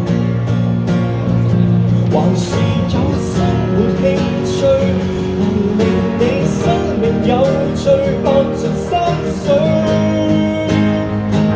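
Live acoustic guitar strummed through an instrumental break of a Cantonese pop song, with a gliding melodic lead line over the chords.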